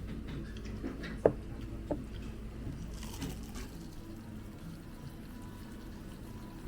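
Two light clinks of tableware about half a second apart, each with a short ring, over a low steady room hum.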